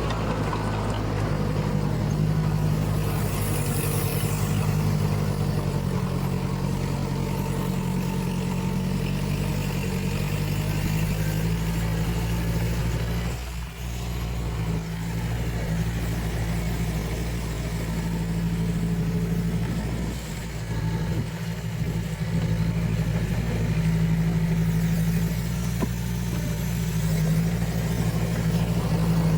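Heavy diesel engine of earthmoving machinery running steadily under load, with brief dips in level about 13 and 21 seconds in.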